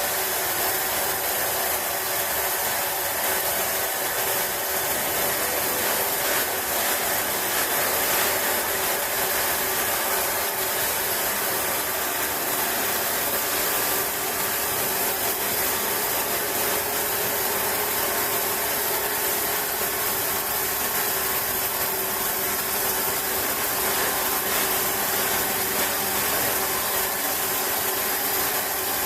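Large sawmill saw machinery running steadily, a continuous loud high hiss with a faint steady whine underneath.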